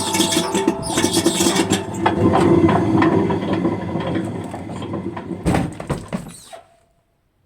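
Washing machine on its spin cycle with a 5-litre water bottle in the drum, rumbling with many irregular knocks and rattles. It stops abruptly about six and a half seconds in.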